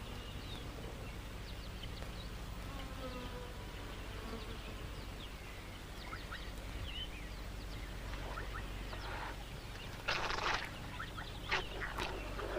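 Flies buzzing and small birds chirping, over a steady low hum. About ten seconds in comes a short, loud rushing burst, followed by a few sharp clicks.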